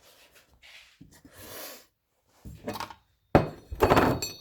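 Metal parts being handled during a wheel spacer fitting: faint shuffling, then a loud metallic clank about three and a half seconds in, with a brief ringing after it.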